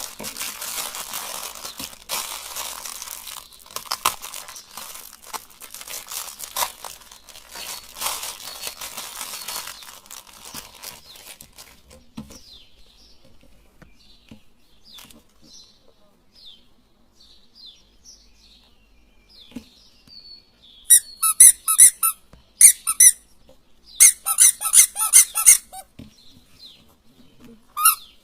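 A plastic toy mouse being crushed in a meat grinder. For the first ten seconds or so there is crackling, crunching noise. Then come faint scattered squeaks, and in the last seven seconds loud runs of quick, high-pitched squeaks.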